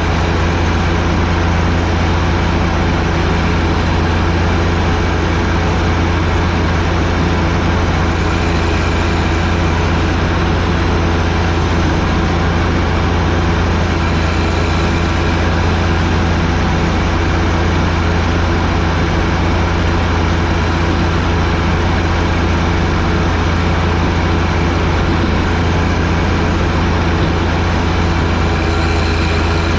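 John Deere 1025R tractor's three-cylinder diesel engine running at a constant speed: a loud, even drone with no change in pitch.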